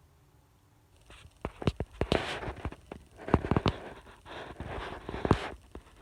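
A run of sharp clicks and knocks mixed with rustling, starting about a second in and stopping shortly before the end: objects being handled.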